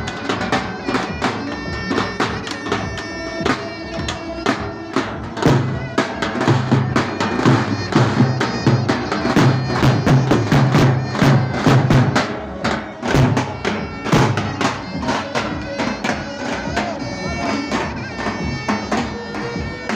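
Davul and zurna playing a fast folk dance tune. The double-headed drum beats a steady rhythm under the shrill, reedy zurna melody, and the deep drum strokes grow heavier through the middle.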